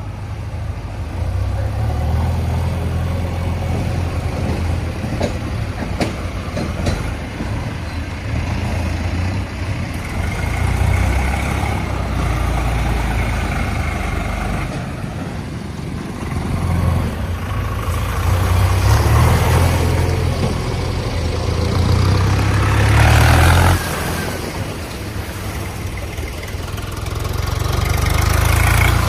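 Tractor engine running, its low rumble rising and falling with the throttle; it is loudest a little past the middle and drops off suddenly about 24 seconds in, then builds again near the end.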